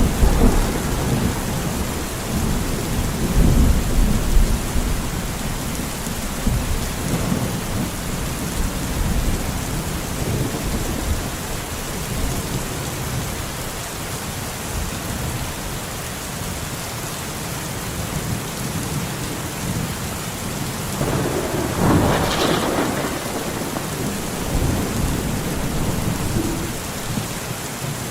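Steady rain falling during a thunderstorm, with thunder rumbling: a roll that fades over the first few seconds and another peal about twenty-two seconds in.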